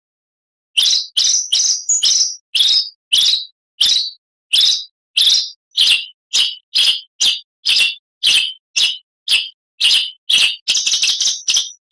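Oriental magpie-robin (kacer) singing a steady series of short, clear whistled notes, about two to three a second, beginning just under a second in and quickening into a fast run of notes near the end.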